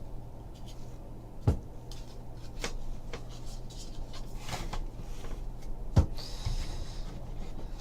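Trading card packs and cards being handled on a table: soft handling noise with a few sharp taps, the loudest about a second and a half in and again about six seconds in, over a low steady hum.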